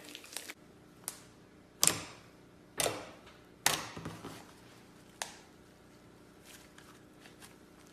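Slime being handled, giving a series of sharp pops and clicks, the loudest three about two, three and four seconds in, with fainter ones after.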